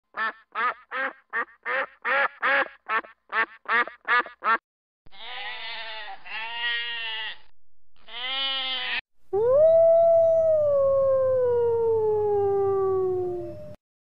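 A series of animal calls. First comes a quick run of about a dozen short, evenly spaced calls, roughly three a second. Then come two stretches of wavering calls, and finally one long call that slides slowly down in pitch.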